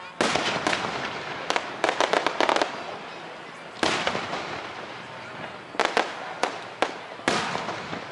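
Aerial fireworks shells bursting in a display: a series of sharp reports, each trailed by crackle, with a rapid run of several bursts about two seconds in and scattered bursts after.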